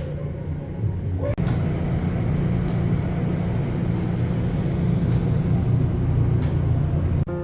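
Steady low rumble of a moving vehicle, with an abrupt break about a second and a half in.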